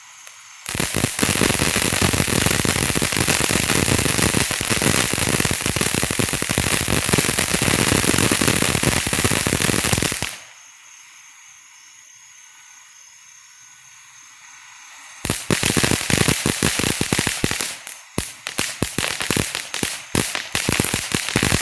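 A firework fountain, World Class Fireworks' Yin Yang, going off with dense crackling. It starts about a second in and runs for roughly nine seconds, drops to a softer hiss for about five seconds, then crackles again in more broken clusters.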